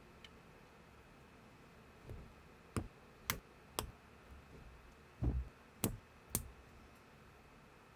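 Plastic building bricks being handled and pressed together, giving about five sharp clicks mixed with a couple of soft low knocks, starting a few seconds in.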